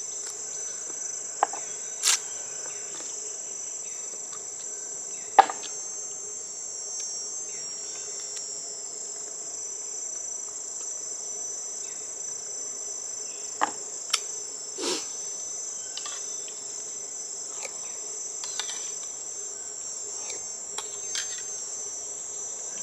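Steady, high-pitched chorus of insects trilling in several constant tones, with a few sharp clicks or knocks scattered through it.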